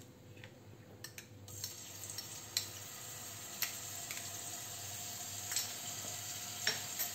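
Garlic paste frying in hot oil: a steady sizzle that starts about a second and a half in as the paste goes into the pan, with a few light clicks.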